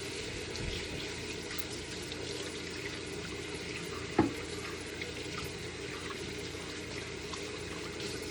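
Tap water running steadily over the coffee machine's whipper bowl parts as they are rinsed off. A single knock a little after four seconds in.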